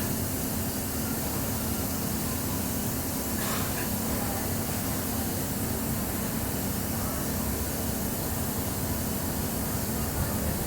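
Diesel-electric multiple unit train heard from on board: a steady low engine hum under an even hiss of running noise, with one faint tick about three and a half seconds in.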